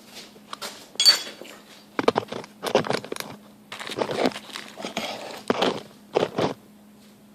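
Small objects handled and set down on a work surface: a run of irregular knocks, clatters and rustles, with a faint steady hum underneath.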